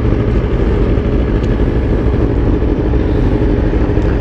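Motorcycle under way: a steady, loud low rumble of engine and road noise, with a faint steady engine drone.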